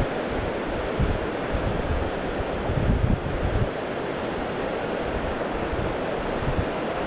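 Pacific Ocean surf washing steadily, with wind gusts buffeting the microphone that ease a little past the middle.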